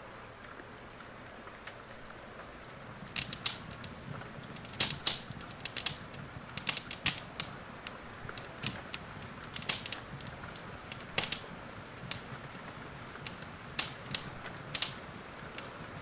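Wood fire in a fireplace crackling, with irregular sharp pops starting about three seconds in, over a steady hiss of rain.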